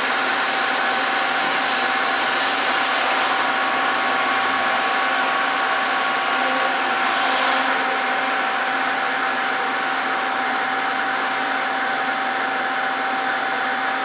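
A loud machine with a steady rush of air and a steady hum, switched on abruptly just before and running evenly throughout, like a vacuum or blower motor.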